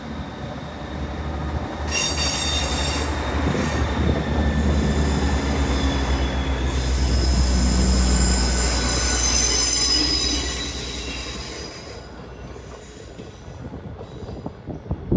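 Great Western Railway Class 800-series Intercity Express Train running out along the curved platform road. Its wheels squeal in several high, steady tones from about two seconds in until about twelve seconds, over a low rumble that fades as the train draws away.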